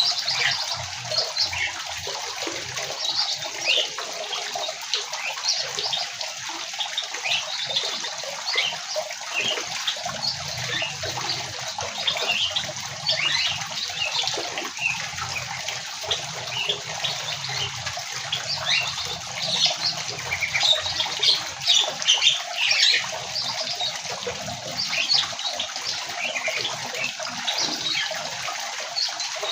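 A flock of small aviary birds chirping and chattering all at once, a dense run of short high calls over a steady hiss.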